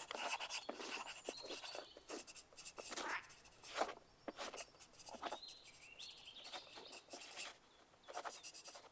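Pencils scratching on paper in an exam room: irregular short writing strokes, several a second, with brief pauses about four seconds in and near the end.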